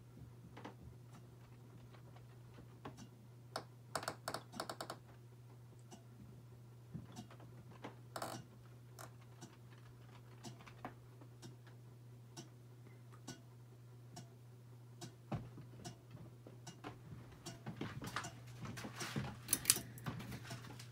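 Harbor Breeze Armitage 42-inch ceiling fan running with a steady low motor hum, over which come scattered light clicks and ticks, in small clusters about four seconds in, near eight seconds and again near the end.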